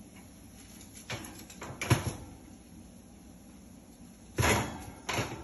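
Metal clatters and a scraping slide as a hot baking tray is handled at an open oven. There are a couple of sharp knocks about one and two seconds in, then a louder scraping rush a little after four seconds and a shorter one near the end.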